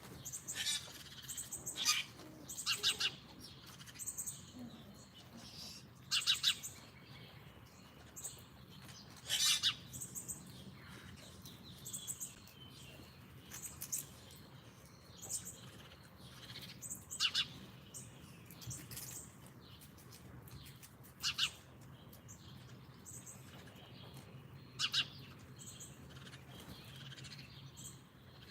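Small songbirds chirping and calling: short, separate high calls a second to a few seconds apart, the loudest in the first few seconds, over a faint steady low hum.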